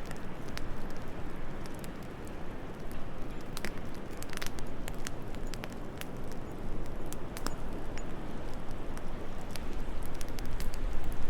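Wood fire crackling with scattered sharp pops over a steady low rush of wind. A deeper rumble swells near the end.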